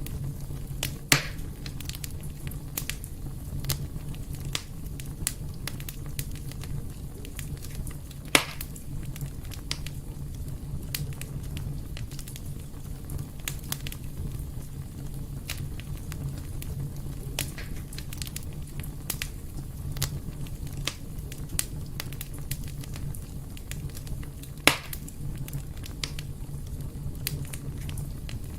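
Fireplace fire crackling, with frequent small clicks and three louder sharp pops about a second in, about eight seconds in and near the end, over a steady low background rumble.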